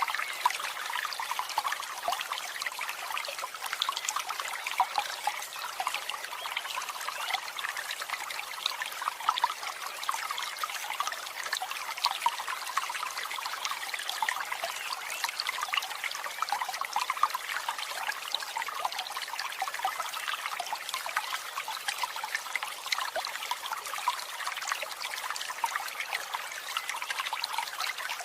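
Water trickling steadily, an even splashing with no breaks.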